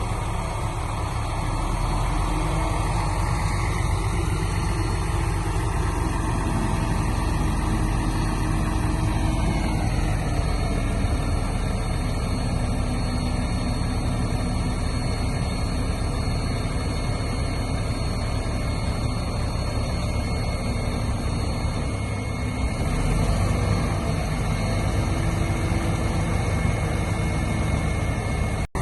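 Diesel engine of heavy earthmoving machinery running steadily, with a tone that glides down in pitch about ten seconds in.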